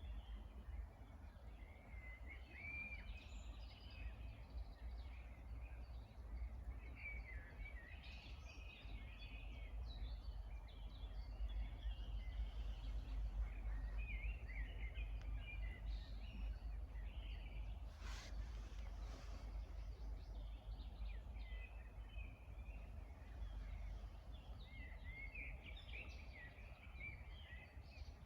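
Songbirds chirping and singing in short, quick phrases over a steady low rumble, with a brief rustle-like noise about two-thirds of the way through.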